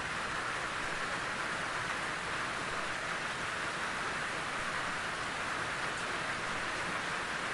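Steady rain falling in a forest, an even patter without let-up.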